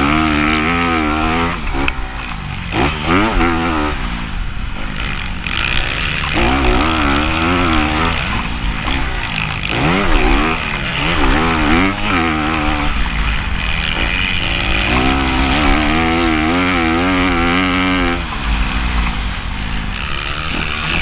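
Motocross dirt bike engines racing, their pitch repeatedly climbing and dropping back as the riders accelerate, shift and back off.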